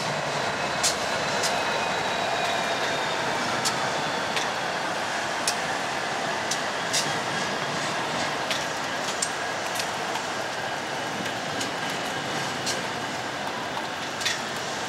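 Diesel freight locomotives running past on a steel bridge, followed by the first double-stack container cars. Sharp clicks from the wheels come at irregular intervals, over a thin high whine that slowly falls in pitch.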